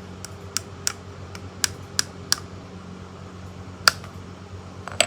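Small hammer tapping on an electric fan motor's metal housing: a quick run of sharp taps over the first two and a half seconds, then two more spaced out, the last at the end.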